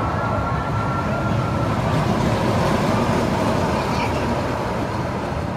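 Small amusement-park train rolling along its track, heard from the rear car: a steady low rumble of wheels and running gear. A thin high steady tone is present for the first two seconds and then fades out.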